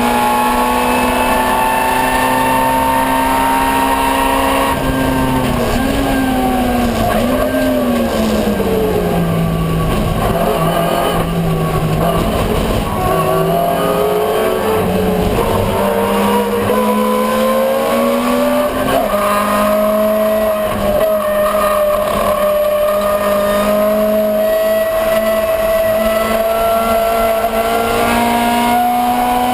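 Ford Escort 1300GT race car's 1300cc four-cylinder engine under racing load. Its note holds high, falls in pitch as the car slows, then climbs steadily as it accelerates again, with a brief dip near the end.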